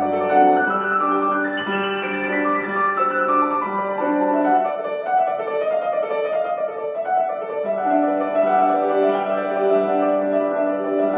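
Piano playing a classical piece, several notes sounding together in held chords and moving lines.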